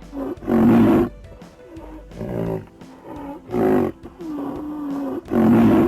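An animal giving four loud calls in a row, with quieter calls between them.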